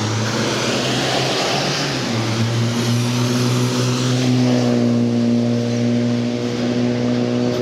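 Motor vehicle nearby: tyre hiss over the first couple of seconds, then a steady engine hum that holds one pitch and grows fuller about halfway through.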